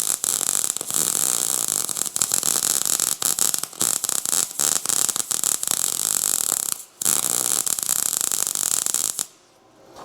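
MIG welder arc crackling and sizzling as it lays weld on steel rod and angle iron: one long bead of about seven seconds, a brief stop, then a second bead of about two seconds that ends abruptly.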